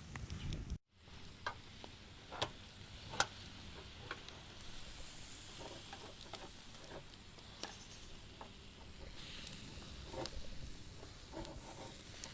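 Campfire crackling: scattered sharp pops over a faint steady hiss, after a brief dropout about a second in.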